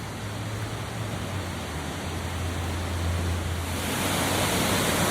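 Waterfall: a steady rush of falling water that grows louder as the falls come near, brightening about three quarters of the way through.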